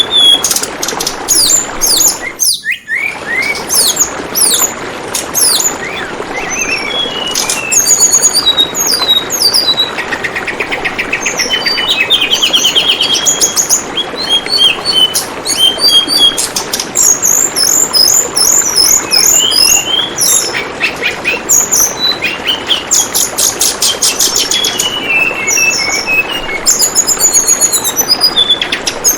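Tledekan bambu bird calling continuously in quick chirps, short sweeps and fast trills over a steady trickle of flowing water. Everything drops out for a moment about two and a half seconds in.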